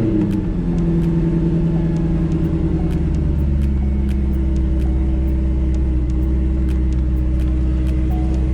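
C5 Corvette Z06's LS6 V8 idling steadily just after starting, settling from its start-up flare within the first half second. Its accessory belt runs on a newly fitted pulley, with no squeak.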